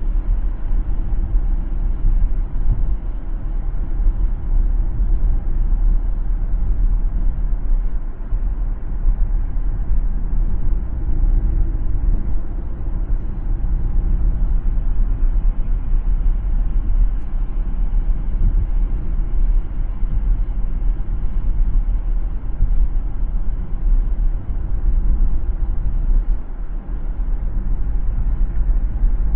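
Road noise of a car driving: a steady low rumble of tyres and engine.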